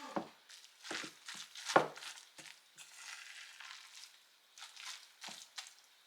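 A series of irregular short knocks and clatters, the loudest a sharp knock just under two seconds in.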